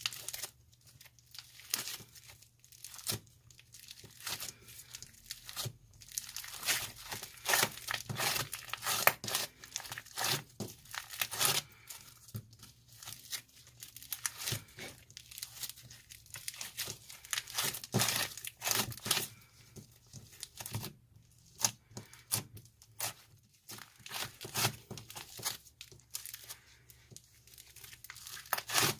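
Slime being squeezed, stretched and poked by hand, with irregular crackling and popping in clusters and short quieter gaps between them.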